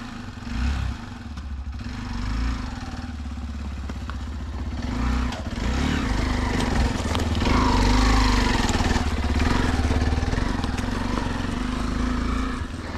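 Motorcycle engine running steadily while riding, a little louder around the middle.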